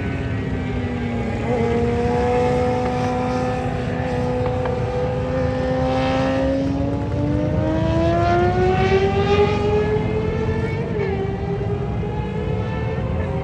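A vintage racing motorcycle's engine running hard, one continuous engine note. Its pitch holds fairly steady, climbs for several seconds as it revs up, and drops abruptly near the end at what sounds like a gear change, then climbs again.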